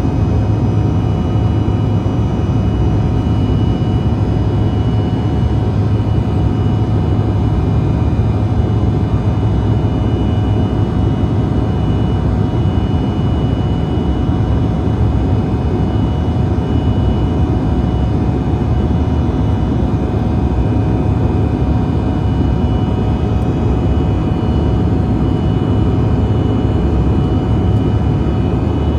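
Cabin noise of a CRJ-900's rear-mounted GE CF34 turbofans in flight: a steady, loud low rumble with several steady whining tones over it.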